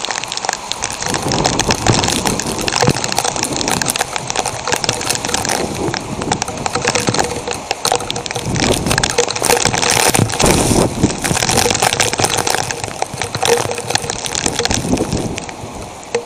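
Heavy downpour pelting the camera at close range, a dense crackling patter of drops that swells sharply at the start and stays loud.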